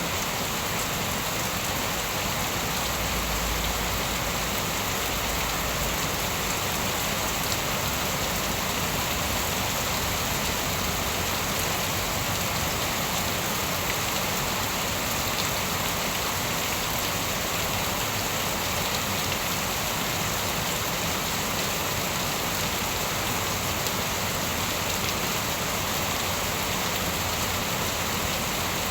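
Steady, even rain falling on surfaces, an unbroken hiss of many drops with no distinct thunderclap.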